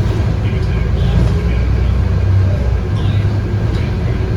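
Scania K230UB bus's 8.9-litre five-cylinder DC9 diesel engine running, heard from inside the cabin as a steady low rumble.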